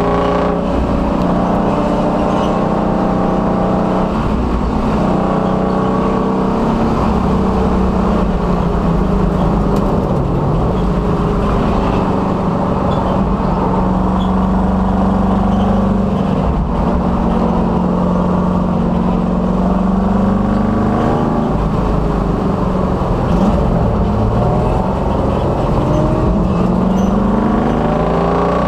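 1966 Dodge Dart race car's engine under load on track, its pitch climbing and falling again and again as it revs through the gears and backs off, over steady wind and road noise.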